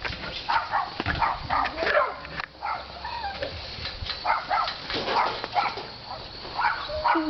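Dog barking repeatedly in short calls.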